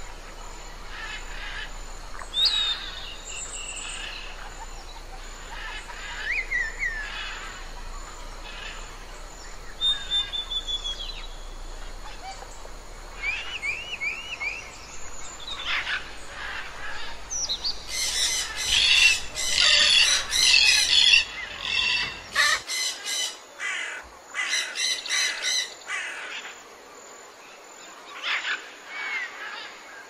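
Various wild birds calling: scattered chirps, whistles and short trills, then a dense, loud stretch of many birds squawking and chattering at once about two-thirds of the way through.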